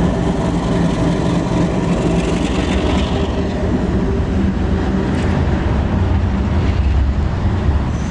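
Canadian National container train rolling past, a steady rumble of steel wheels on the rails with a few light clicks.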